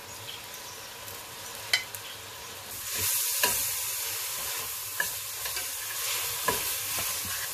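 Onion-and-tomato masala frying in oil in a stainless steel pot as ground and whole spices are tipped in. The sizzle gets much louder about three seconds in, and a metal spoon scrapes and knocks against the pot a few times as it is stirred.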